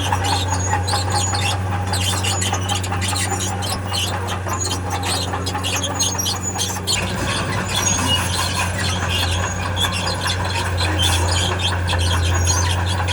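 Tracked earthmover working: its diesel engine runs with a steady drone while its steel tracks squeal and clank.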